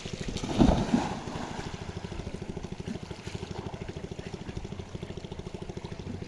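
Small boat engine running steadily with an even, fast pulse, with two brief louder thumps about a second in.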